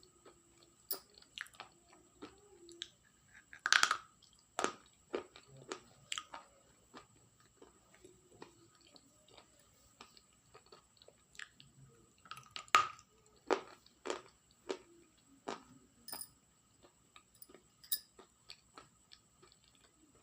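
Close-up ASMR chewing of something brittle: irregular sharp crunches and bites, with the loudest crunches about four seconds in and again near the middle.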